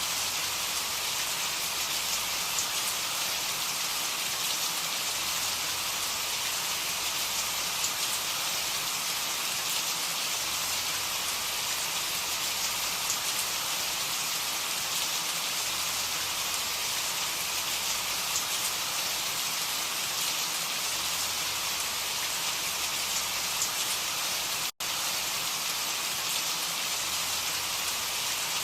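Steady rain falling, an even hiss with scattered drop ticks. It cuts out for an instant about three-quarters of the way through.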